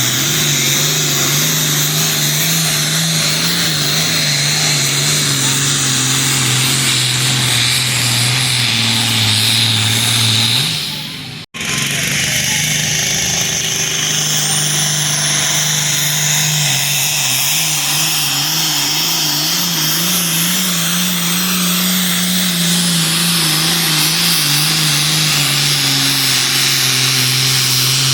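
Heavy diesel engine of a pulling truck or tractor running hard at high revs under load as it drags the weight sled, its pitch stepping up and down. The sound drops out abruptly about a third of the way through, then the engine carries on.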